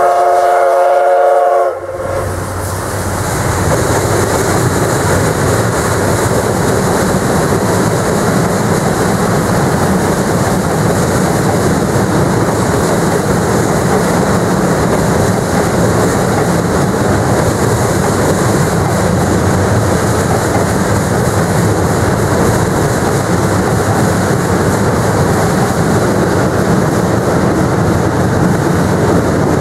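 A steam locomotive's whistle sounds a chord-like blast for about two seconds and cuts off sharply. Then comes the steady, heavy rumble and rattle of the train's wheels and cars crossing a bridge.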